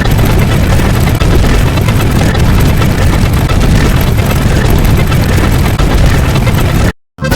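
Very loud, heavily distorted noise with a deep low rumble, cutting off abruptly to silence for a moment near the end before starting up again.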